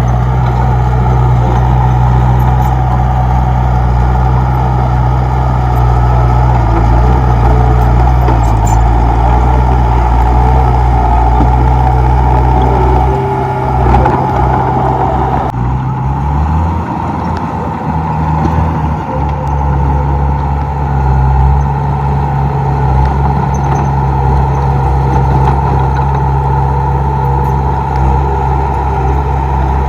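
Komatsu D31P crawler bulldozer's diesel engine running steadily as it works. Around the middle its note shifts and wavers for a few seconds, then settles back to a steady drone.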